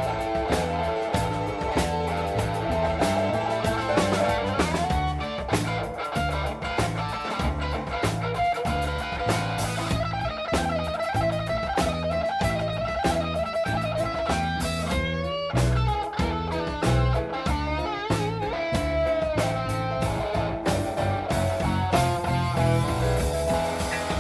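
Blues band playing an instrumental passage: electric guitar lead with bent, wavering notes over bass and a steady drum beat.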